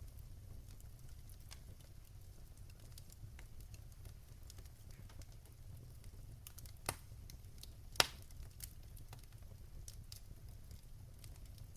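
Fire crackling in a fireplace: scattered small crackles over a low steady rumble, with two sharper pops a second apart well past halfway, the second the loudest.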